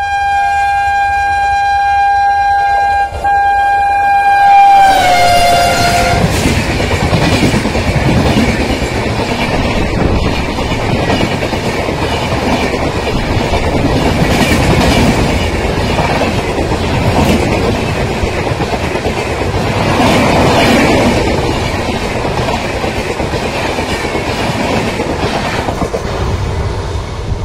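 Passenger train's horn sounding one long blast for about five seconds, dropping in pitch as the front of the train passes, followed by the loud rumble and rattle of passenger coaches going by at speed, wheels clicking over rail joints.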